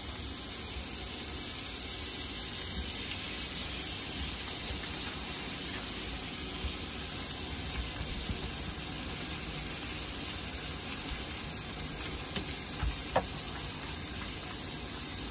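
New York strip steak and freshly added butter sizzling steadily in a hot frying pan as the steak sears. A couple of light knocks near the end.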